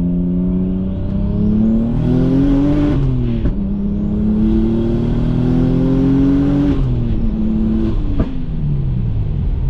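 Single-turbo BMW N54 inline-six accelerating hard, its pitch climbing and then dropping at gear changes about three and seven seconds in, with a further drop near the end.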